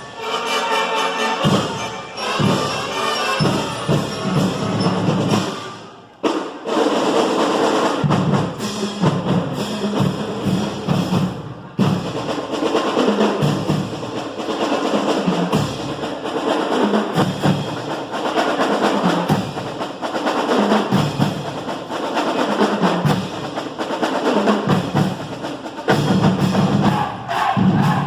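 Marching band playing, with drums beating a busy rhythm over the tune; the playing breaks off briefly about six seconds in and then resumes.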